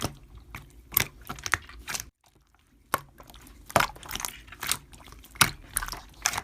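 Slime being squeezed and poked by hand, giving irregular sharp clicks and pops. The sound drops out completely for just under a second about two seconds in.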